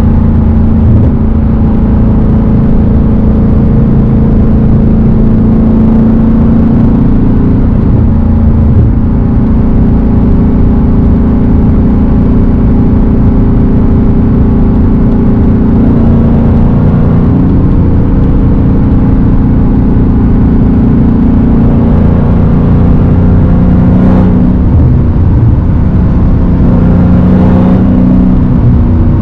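Straight-piped Dodge Hellcat's supercharged 6.2-litre V8 running under way with a loud, steady exhaust note, its pitch shifting up or down a few times as the revs change.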